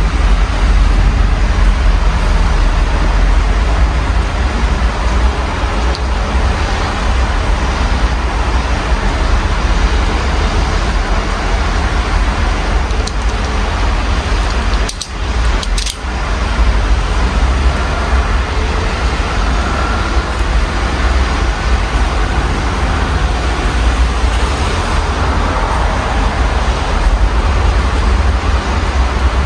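Steady rain mixed with city road traffic passing, heard through an open window, with a deep low rumble underneath. The sound dips briefly about halfway through.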